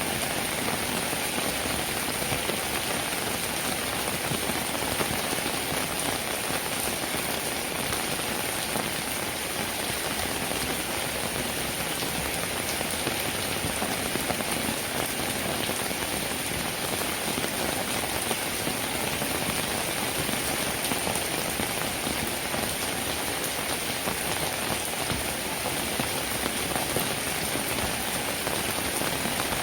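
Steady rainfall, an even hiss of drops that holds without breaks or thunder.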